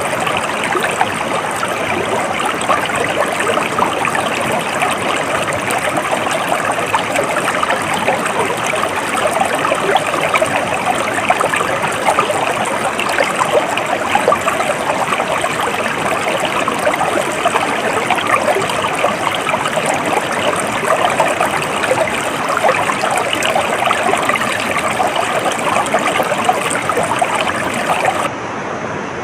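A stream flowing and babbling steadily. About a second before the end it cuts abruptly to a quieter, more even rush of water.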